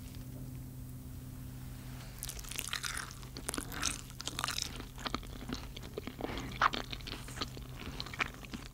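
Crisp-fried zucchini, potato and carrot pancake being bitten and chewed, with irregular crunches starting about two seconds in. A steady low hum runs underneath.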